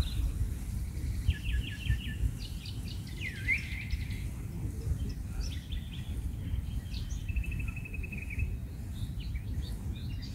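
Birds calling: a couple of short rapid trills, a swooping call about three and a half seconds in, and a longer even trill near the middle, over a steady low rumble.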